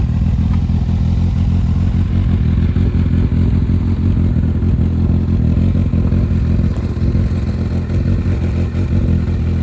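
Honda CBF1000's inline four-cylinder engine idling steadily through a newly fitted aftermarket straight-through, Yoshimura-style exhaust, warming up after its first start.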